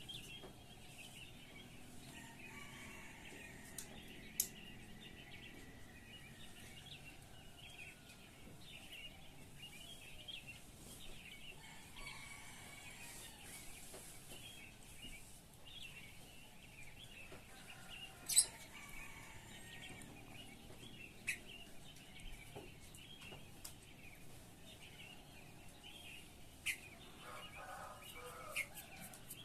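Sooty-headed bulbuls (kutilang) chirping and singing in short, rapid phrases, with a few sharp clicks, the loudest about two-thirds of the way through.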